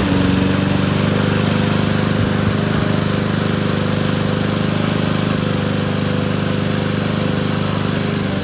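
Honda GCV160 overhead-cam lawn mower engine running steadily, its crankcase filled with ketchup and water instead of oil.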